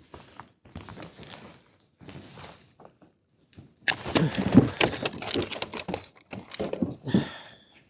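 Handling noises while a deep-hooked small lingcod is unhooked: uneven rustling with sharp clicks and knocks, the busiest stretch about halfway through.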